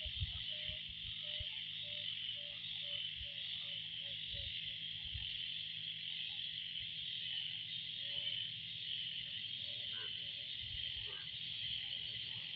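Frogs calling after heavy rain: a steady, high-pitched chorus runs throughout. Over it, a lower-voiced frog gives short repeated notes, about two a second, fading out after the first few seconds.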